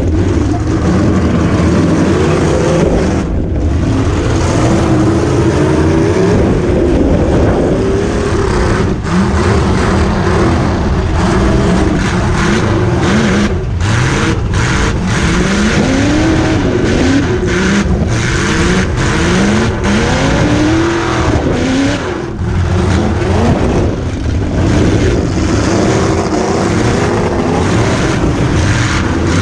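Demolition derby car's V8 engine heard from inside the car, loud throughout, its revs rising and falling over and over as the throttle is worked.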